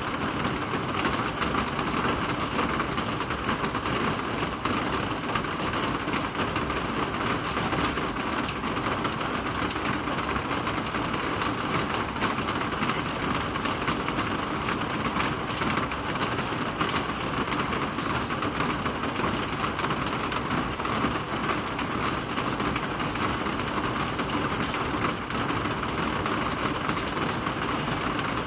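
Steady rain falling and pattering on surfaces, an even, unbroken hiss with fine crackling drops.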